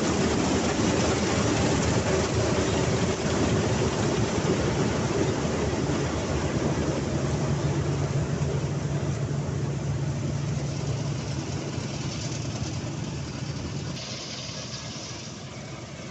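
Mahindra 275 XP Plus diesel tractor engine running steadily during wheat harvesting, growing gradually fainter over the stretch. There is a steady low hum midway, and the sound changes abruptly near the end.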